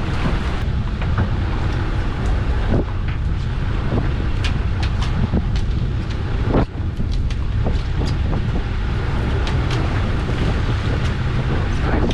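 Small fishing boat's engine running steadily, with wind buffeting the microphone and scattered short knocks and clicks on the boat.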